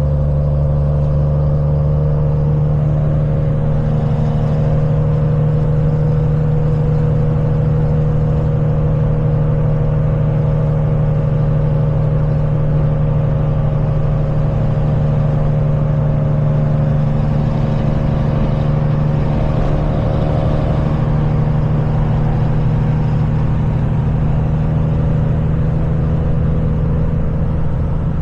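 Kenworth semi truck's diesel engine running steadily at cruising speed, a continuous low hum that holds an even pitch, with road noise.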